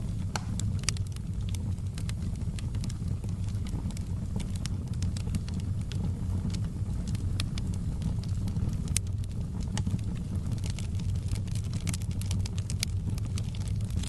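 Fire in a fireplace crackling: frequent sharp pops and snaps over a steady low rumble.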